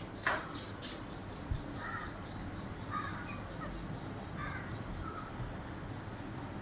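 A few sharp clicks in the first second, then several faint, short bird calls spaced a second or so apart.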